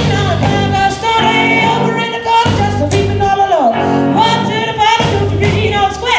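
Live band music in a rock and roll style: drum kit and bass keep a steady beat under a lead melody line that slides between notes.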